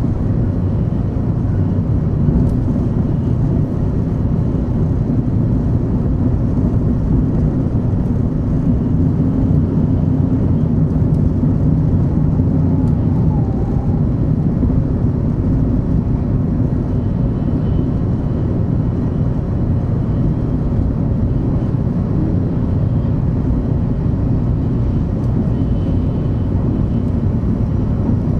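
Steady running noise of a 500 Series Shinkansen heard inside the passenger cabin: an even low rumble with a hiss above it.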